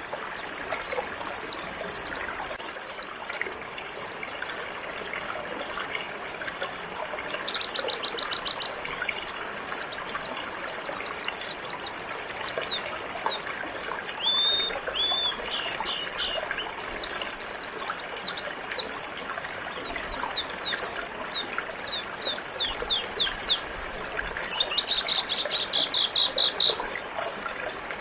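White-eyes (pleci) singing quick, high twittering phrases and short trills, one after another, over the steady rush of flowing river water.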